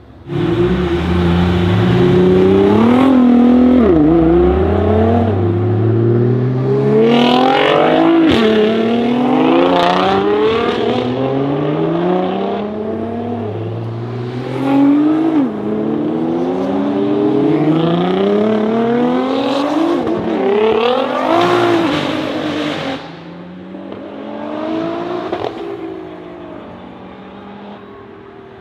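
Several Nissan GT-R R35s with twin-turbo V6 engines accelerating hard past one after another, each engine note climbing through the gears and dropping back at every upshift. It is loudest as one car passes close at about the halfway point, fades after about 23 seconds, and one quieter car accelerates past near the end.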